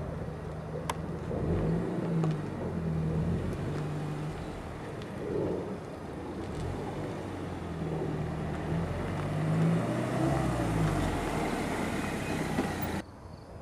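Peugeot RCZ R's turbocharged 1.6-litre four-cylinder engine running as the car drives by, its note rising and falling in pitch several times over tyre and road noise. The sound cuts off abruptly shortly before the end.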